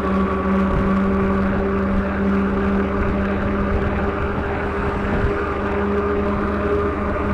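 A truck engine droning steadily at cruising speed, with wind rushing over the microphone at high speed.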